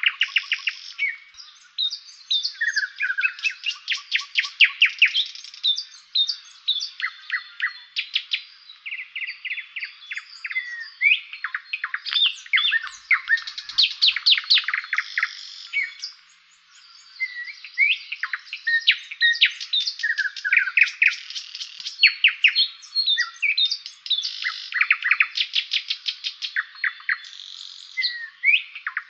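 Several songbirds singing at once in a dense spring chorus of chirps, rapid trills and whistles, with a short lull about sixteen seconds in.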